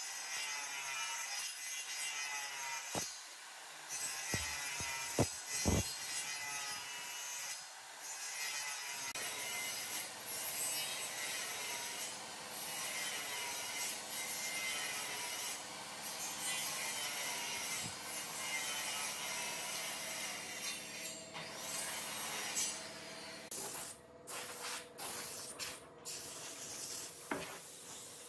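Abrasive rubbing strokes on wood, a rough hiss broken by short pauses every second or two, as in hand sanding or filing. A faint steady hum joins about nine seconds in.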